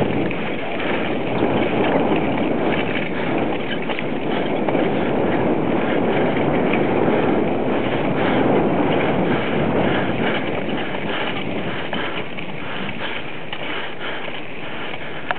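Bicycle ridden over a rough dirt trail: a steady rushing noise of tyres and wind on the microphone, with many small rattles and bumps.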